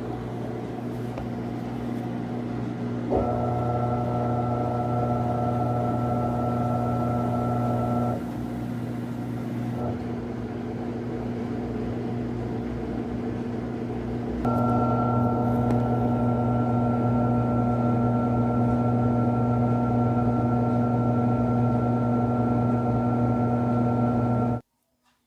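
Panasonic 14 kg washing machine draining and spinning: a steady pump hum, with the motor's higher whine and louder running coming in about three seconds in, dropping out around eight seconds, and returning around fourteen seconds as the spin cycle works up. The sound cuts off suddenly near the end.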